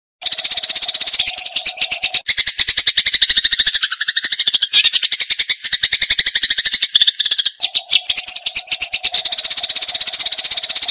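Eurasian tree sparrow in fast, unbroken chattering, a rapid string of harsh chirps of the agitated 'fighting' kind. It starts abruptly just after the beginning.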